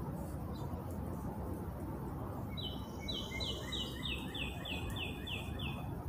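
A songbird sings a quick series of about ten repeated short notes, each dropping slightly in pitch, starting about two and a half seconds in. Under it runs a steady low outdoor background noise.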